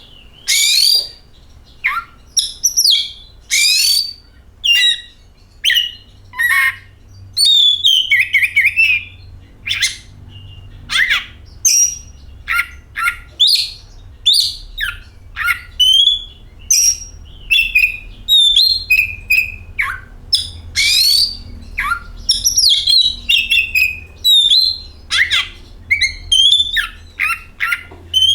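Oriental magpie-robin (kacer) singing a loud, varied song of rapid whistles, chirps and harsher squawky notes in closely packed phrases, the kind of song played to get caged kacer singing.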